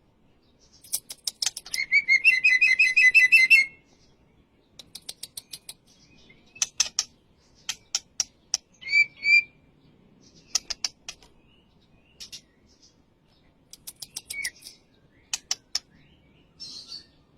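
White-rumped shama (murai batu) calling and singing in short bouts: runs of sharp, dry clicking notes, a fast rattling trill about two seconds in, and a few brief whistled notes in between.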